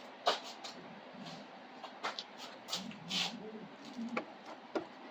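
Scattered light clicks and rustles of packing material and plastic parts being handled while a 3D printer is unpacked, with a faint low murmur about three seconds in.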